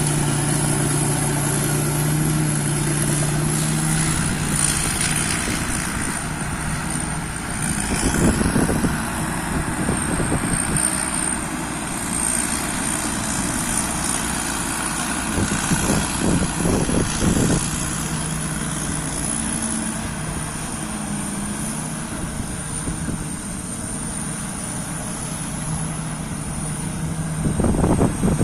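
Rice combine harvester running steadily, a continuous engine hum with a high, wavering whine over it. The low engine note weakens after about four seconds and comes back near the end, and a few brief knocks break through.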